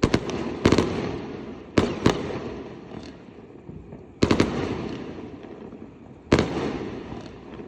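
Fireworks going off: about six loud booming bangs at uneven intervals, each followed by a long rolling echo.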